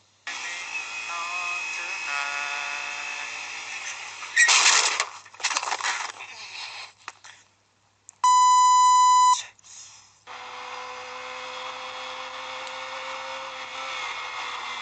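A one-second electronic beep, a single steady tone with no change in pitch, cut sharply in and out, between stretches of steady mechanical running noise and a loud burst of noise about four and a half seconds in.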